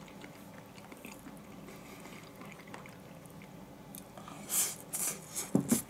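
A person eating: quiet chewing of a mouthful of food, then several short, louder wet mouth smacks in the last two seconds as another mouthful goes in.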